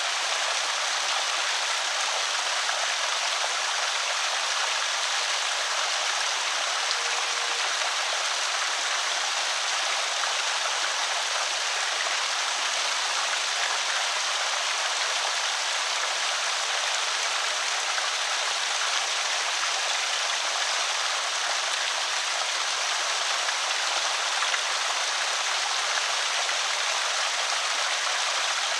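Water pouring steadily over a small creek spillway, an even rushing trickle.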